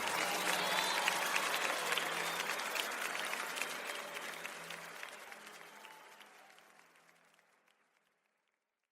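Audience applauding, with a steady low note held beneath. The applause fades out gradually and is gone shortly before the end.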